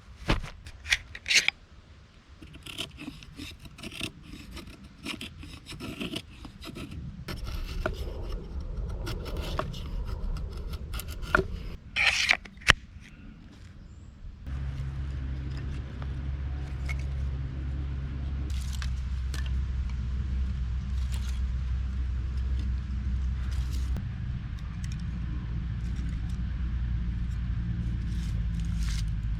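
Scraping and rasping on spruce kindling while a campfire is being prepared, with several sharp knocks in the first half. About halfway through, a steady low rumble sets in and carries on.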